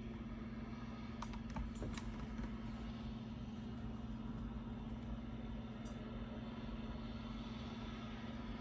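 Steady background hum with one constant low tone, and a few faint clicks and taps between about one and two and a half seconds in.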